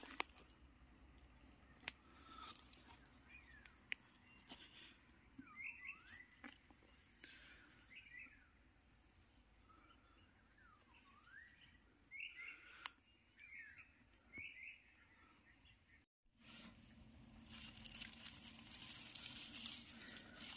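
Wild birds calling in woodland: repeated short whistled notes, some sliding down and back up, with a few sharp snaps of twigs. After a brief cut about 16 s in, rustling in the undergrowth.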